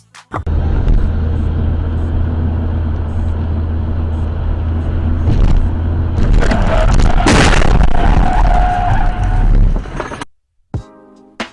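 Dash camera recording of a car on the road: steady low engine and tyre rumble, a sudden loud crash about seven seconds in, then a short high squeal. It cuts off abruptly about ten seconds in.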